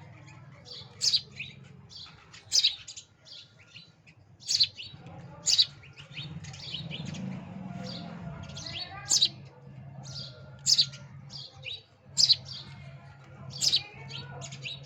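A young bird chirping: short, sharp, high-pitched chirps repeated irregularly, about every one to two seconds, over a steady low hum.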